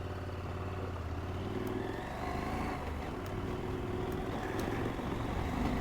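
KTM 890 Adventure's parallel-twin engine running steadily at low revs.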